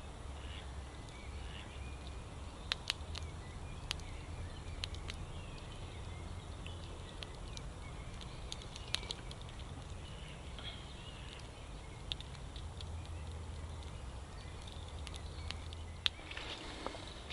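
Faint birdsong with scattered sharp crackles and pops from a wood campfire, over a steady low rumble.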